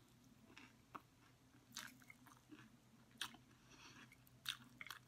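Soft chewing of a mouthful of chatpate, a Nepali puffed-rice snack, with a few separate crisp crunches through it, the strongest about 2, 3 and 4.5 seconds in.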